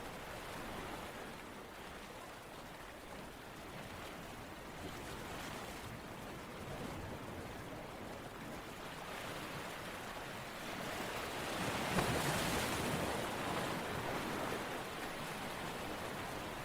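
Steady rushing water, swelling to a louder wash about twelve seconds in and easing off again.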